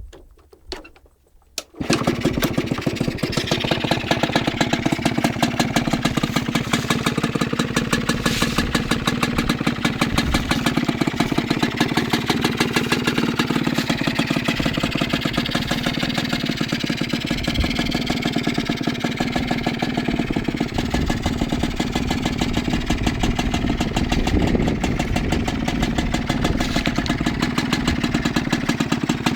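A small Suzuki motorcycle's RC80 engine starts about two seconds in after a few quiet knocks, then idles steadily with a fast, even beat and small rises in speed.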